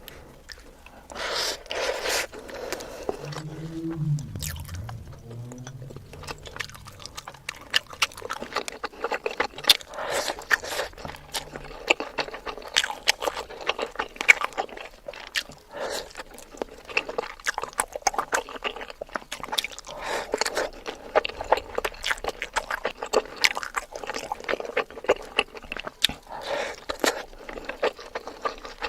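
Close-miked chewing and crunching of food, with dense, irregular crisp bites and mouth sounds throughout.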